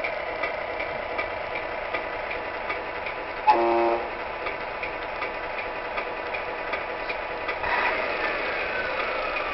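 Tamiya 1/14 Scania R620 radio-controlled truck: a simulated diesel idle with a steady ticking about three times a second, broken by one short air-horn blast about three and a half seconds in and a hiss with a falling tone near the end.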